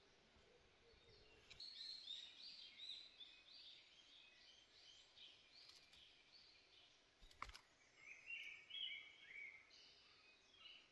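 Faint bird calls: two runs of short, repeated high chirps, a few a second, the second run a little lower in pitch. A single sharp click about seven and a half seconds in.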